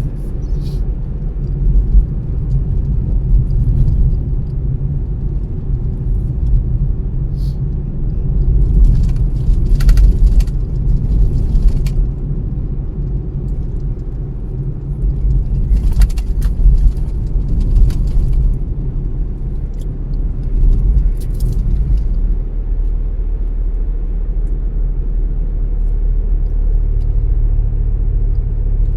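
A car driving along a road: a steady low rumble of engine and tyre noise. Brief knocks or rattles come in clusters about nine to eleven and sixteen to eighteen seconds in.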